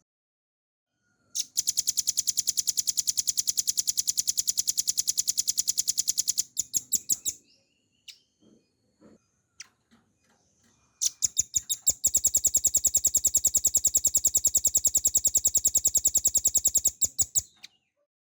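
Velvet-fronted nuthatch singing: two long, very rapid trills of evenly repeated high notes, each lasting about five seconds and breaking into a few slower separate notes at the end, with a few soft notes in the pause between.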